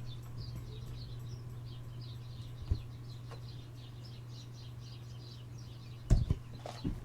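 A bird chirping quickly and repeatedly in the background over a steady low hum, with a couple of loud knocks near the end.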